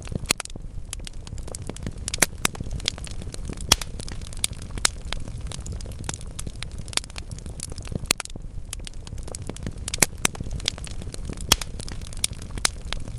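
Wood fire in a fireplace: logs burning with a steady low rumble and dense, irregular crackling, with a few louder sharp pops.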